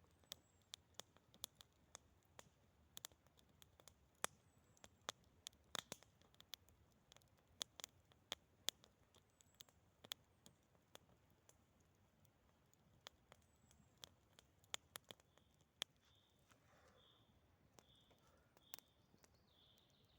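Faint, irregular crackling pops of a wood campfire. In the last few seconds a bird gives a run of short high calls, about two a second.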